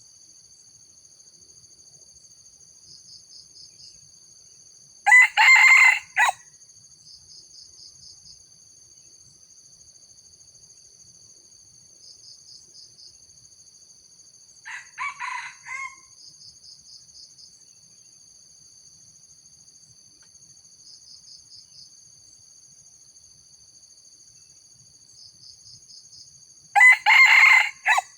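Junglefowl rooster crowing three times: a loud crow about five seconds in, a fainter crow midway, and another loud crow near the end. Insects chirr steadily in short pulsing trills between the crows.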